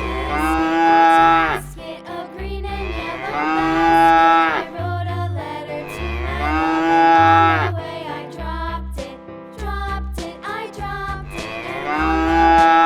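Cow mooing four times, each call lasting about a second and a half, over background children's music with a repeating bass line.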